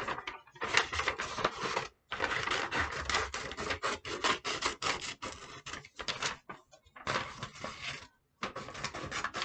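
Scissors cutting paper, with the paper rustling: a dense run of crisp snips and crackles, broken by a few short pauses.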